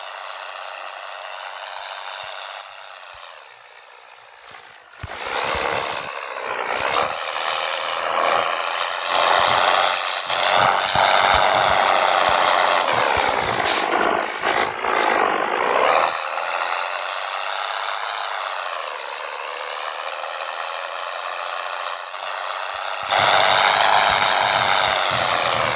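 Scania 113 bonneted truck's 11-litre straight-six diesel pulling under load, its note rising and falling with the revs through gear changes. It drops back about three seconds in, comes in loud again at about five seconds, eases off near sixteen seconds and surges louder again near the end.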